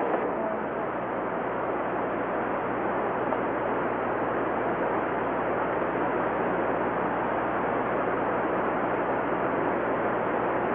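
Rushing river water, a steady even roar with no change.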